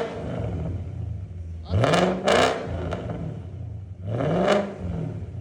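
Audi S6 4.2 Quattro's V8 engine, running with both catalytic converters removed, idling and blipped twice: the revs rise sharply and fall back about two seconds in and again about four seconds in.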